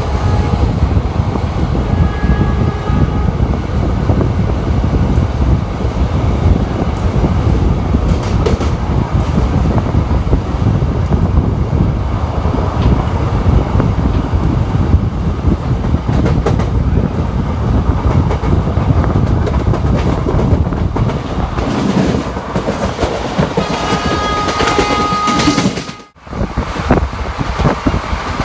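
Indian Railways ICF passenger coach running at speed, heard from on board: a steady loud rumble and clatter of wheels on the track. The sound cuts out briefly near the end and comes back.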